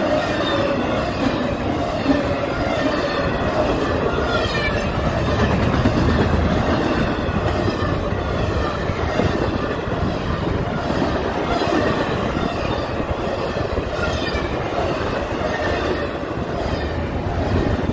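Freight cars of a double-stack intermodal train rolling past at speed: a continuous rumble and clatter of steel wheels on rail, with a few faint wheel squeals in the first few seconds.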